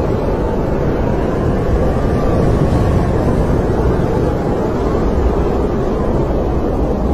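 Snowstorm wind blowing in a steady low rush, with a faint whistle that rises and falls in pitch in the middle.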